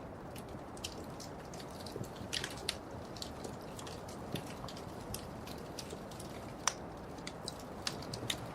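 Wood fire burning in a fireplace: a steady low rush of flames with scattered sharp crackles and pops, one louder snap near the end.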